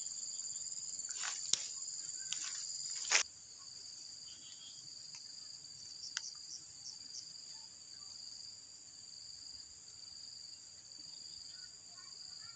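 Steady high-pitched insect chorus, a continuous two-pitched trill like crickets, with a few sharp clicks in the first three seconds. The sound drops noticeably in level just after a loud click a little over three seconds in.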